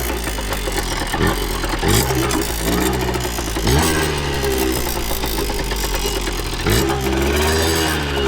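Kawasaki KD80's 80cc two-stroke single-cylinder engine under way, revving up and running through the gears, its pitch sweeping up sharply about four times.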